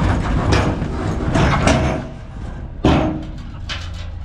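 A dump truck tipping a load of boulders, the rocks knocking and crashing as they slide off the bed over the truck's low, steady engine rumble. The loudest crash comes about three seconds in, and it is quieter after.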